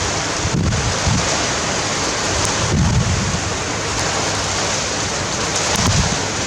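Strong wind blowing, with gusts buffeting the microphone as low rumbles about half a second in, near three seconds and near six seconds, over a steady loud hiss.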